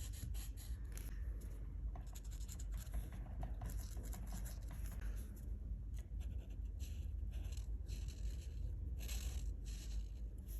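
A colouring tool scratching across paper in short, irregular strokes, over a steady low rumble.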